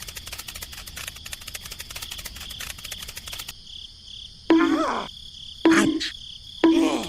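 Insects chirring steadily with a rapid pulsing. Three loud, pitched animal calls follow in the second half, about a second apart, each falling in pitch.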